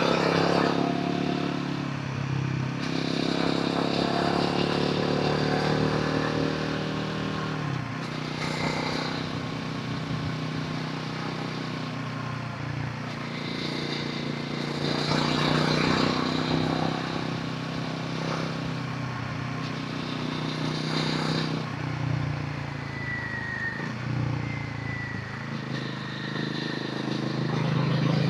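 Royal Enfield Himalayan 450's single-cylinder engine and exhaust on the move, the revs climbing and falling again several times as the rider works the throttle and gears.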